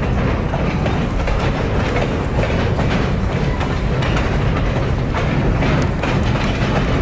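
Canadian National freight train's cars rolling across a steel girder bridge: a loud, steady low rumble with repeated clicks from the wheels.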